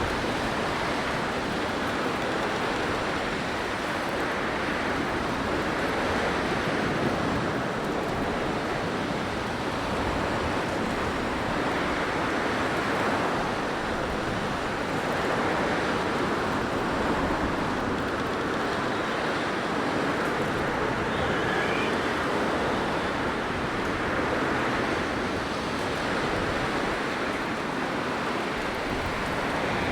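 Blizzard wind blowing hard and steadily, a dense rushing noise that swells and eases every few seconds.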